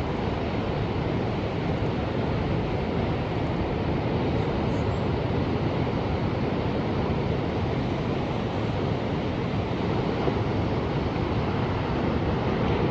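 Ocean surf: a steady, continuous rush of waves with no single breaker standing out.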